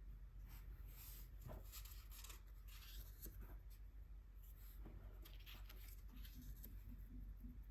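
Faint brush strokes of gouache paint on paper, a few short soft swishes with light clicks between them.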